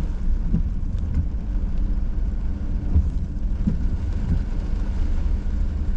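Car driving slowly, heard from inside the cabin: a steady low rumble of engine and road, with a few faint soft knocks.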